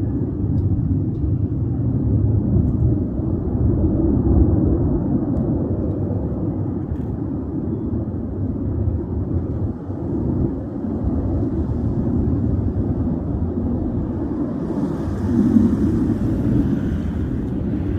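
Distant jet aircraft, a steady low engine noise, with a higher hiss joining for a couple of seconds about fifteen seconds in.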